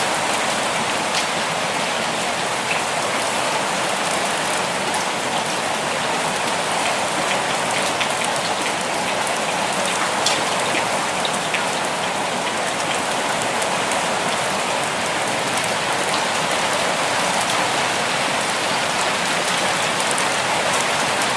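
Steady rainfall: an even hiss of rain with scattered sharper drops ticking on a surface.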